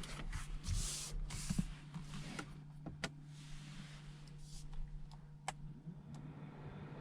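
Rustling and handling noise, then two sharp clicks about three and five and a half seconds in, inside a car cabin, over a steady low hum.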